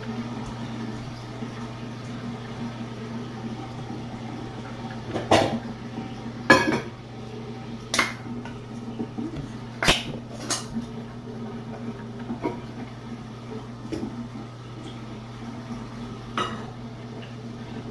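Dishes clinking and knocking, about eight sharp hits scattered through the middle of the stretch, the loudest two close together, over a steady low hum.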